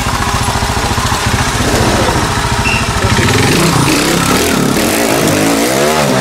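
Trials motorcycle engine running with a fast, even beat at low revs, then revved up and down in several quick blips over the last couple of seconds.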